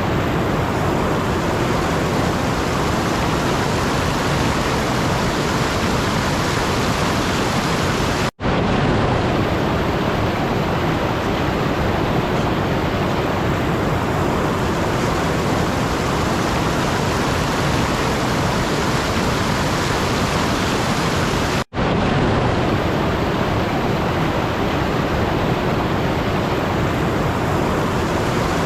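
Steady, even rushing noise like pink noise. It is broken twice by a sudden, split-second dropout, about eight and twenty-two seconds in.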